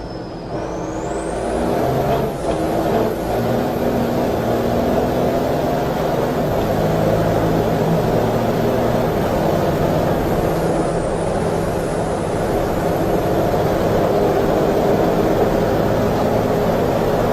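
Race vehicle's engine running hard at speed, its note shifting up and down in pitch over loud road and wind noise.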